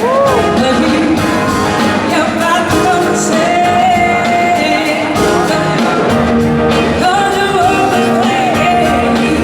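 Live rock band playing a song at full concert volume: drums, bass and guitars, with a lead melody that slides and bends between notes.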